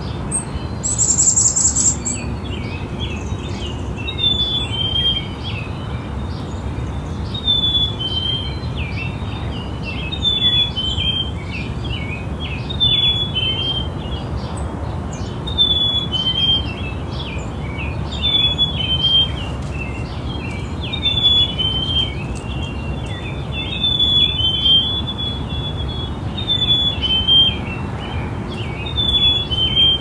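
Birdsong: a bird repeats a short falling note about every two to three seconds amid many other chirps, over a steady low rumble. A loud, high buzzy sound lasting about a second comes about a second in.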